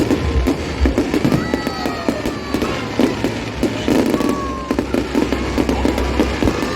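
Fireworks display: a rapid, uneven string of bangs and crackles going off continuously, with a few whistling tones gliding in pitch.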